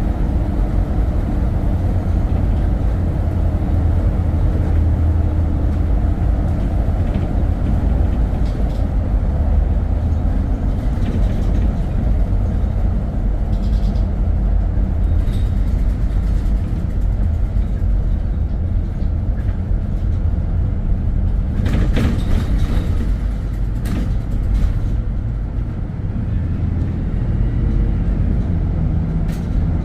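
Steady low rumble of a vehicle driving along: engine and road noise, with a few faint clicks about three-quarters of the way through.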